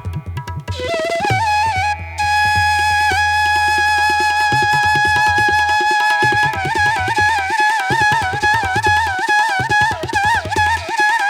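Background music: a flute holds a long note, then plays a wavering, ornamented melody from about halfway through, over a low drone and steady drum strokes.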